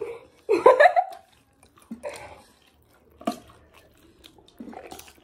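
Wet mouth sounds of people eating noodles: scattered slurps, smacks and chewing clicks. A short burst of voice comes about half a second in.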